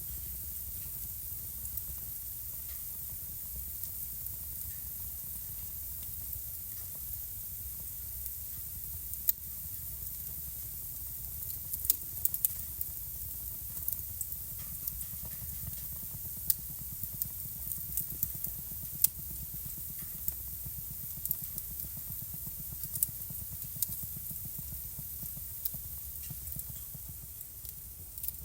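Wood fire burning in a fireplace, crackling: scattered sharp pops and snaps over a steady low rumble and hiss.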